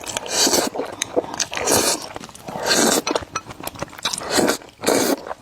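Close-miked noodle eating: about five wet slurps roughly a second apart, with chewing and small clicks between them.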